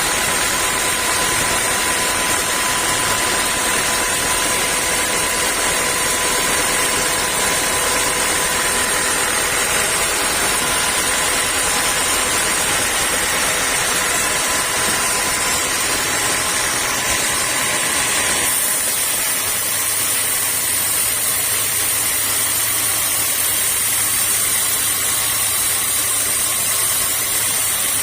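Sawmill machinery running steadily with a constant high whine. About two-thirds of the way through, the sound changes: the high whine drops away and a lower hum comes in.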